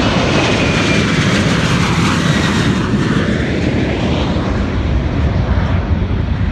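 Boeing P-8A Poseidon jet patrol aircraft making a pass, the loud noise of its two turbofan engines with a whine that falls in pitch as it goes by.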